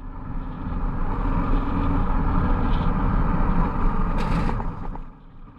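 Yamaha Ténéré 700 motorbike riding along, its parallel-twin engine running with wind rush, heard from on the bike. The sound eases off near the end.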